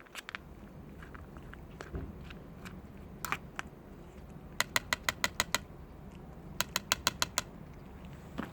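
A cat eating, its chewing making quick sharp clicks, about seven a second, in two runs of about a second each past the middle, with a few scattered softer clicks before.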